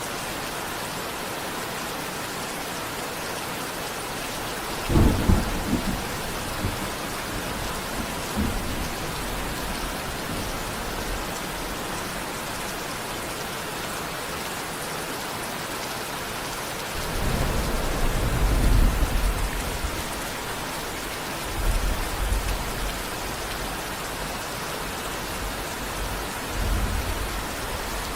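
Steady rain with rolls of thunder: a sharp crack-like swell about five seconds in, a longer rumble a little past halfway, and two shorter rumbles near the end.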